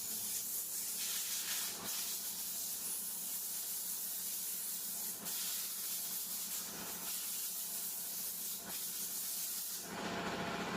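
A steady high hiss over a low hum, with a few faint clicks. Just before the end the hiss drops away and a lower, steady mechanical noise takes over.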